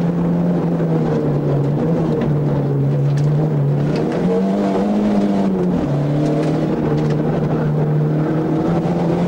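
Racing car's engine heard from inside the cabin, running hard at high revs. The pitch drops about a second in, rises around four seconds and falls again near six as the driver lifts off and accelerates.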